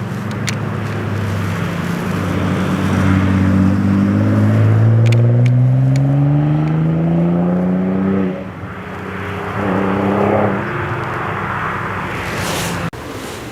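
Car engine accelerating hard, its pitch rising steadily for several seconds before easing off; a shorter burst of throttle follows about ten seconds in, and the sound cuts off abruptly near the end.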